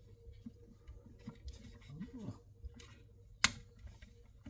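Light handling noises as a wall socket and its small parts are worked by hand, with one sharp click about three and a half seconds in.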